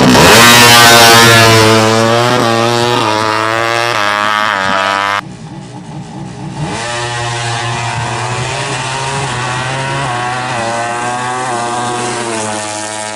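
Four-stroke underbone drag bike engine at full throttle, its pitch climbing and then dropping back again and again as it shifts up through the gears. The sound cuts off abruptly about five seconds in. It comes back quieter and again climbs through several gear changes.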